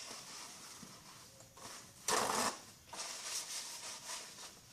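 Rustling and scraping handling noises, with one short, louder rush of noise about two seconds in and a run of fluttering scratches after it.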